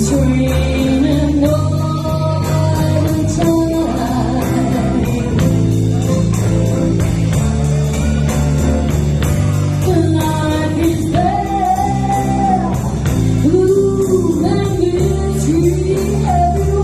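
Live blues band with a singer holding long, wavering notes over electric guitar and bass.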